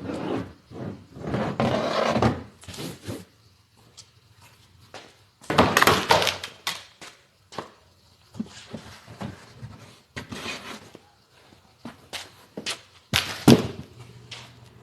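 Scattered thumps, knocks and rustling from handling things inside a car's interior, with a sharp knock near the end as the loudest.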